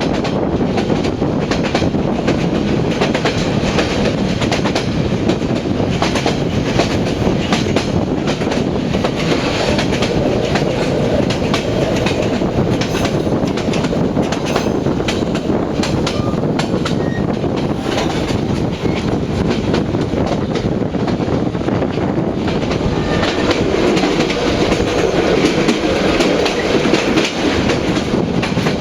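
Passenger train on the Vietnamese North–South railway running along the track: a steady loud rumble with many irregular clicks of the wheels over rail joints.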